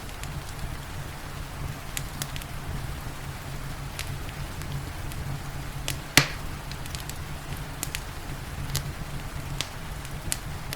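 Wood fire in a fireplace crackling with scattered sharp pops, one much louder pop about six seconds in, over a steady low rumble from the fire and a soft even hiss of rain.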